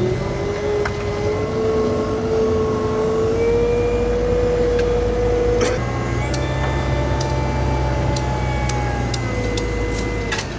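A heavy construction machine's engine runs steadily, its pitch slowly rising and then shifting about halfway through as it works. Sharp clicks and knocks sound now and then in the second half.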